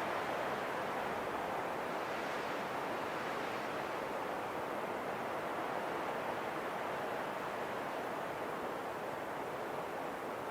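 Steady rushing wind, swelling slightly about two seconds in.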